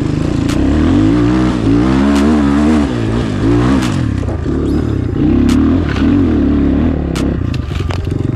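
Enduro motorcycle engine revving up and down repeatedly as the bike is ridden over rough, hilly ground, with scattered knocks and clatter.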